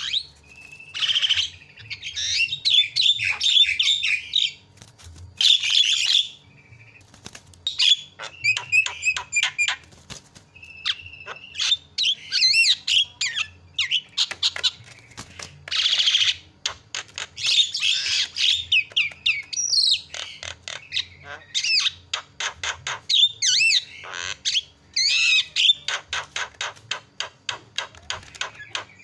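Javan myna (jalak kebo) singing loudly: harsh squawks mixed with whistled gliding notes and fast runs of clicks, ending in a rapid steady clicking series.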